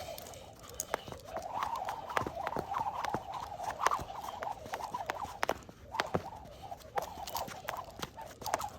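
Skipping rope slapping the floor in a quick, uneven rhythm of sharp clicks, with a steady whir from the spinning rope between strikes.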